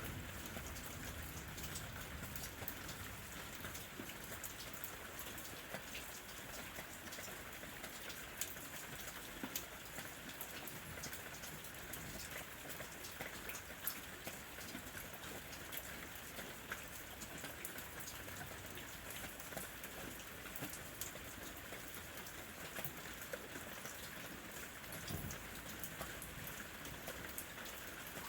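Steady rain falling, an even hiss dotted with many sharp ticks of single drops striking nearby, with a soft low thump about 25 seconds in.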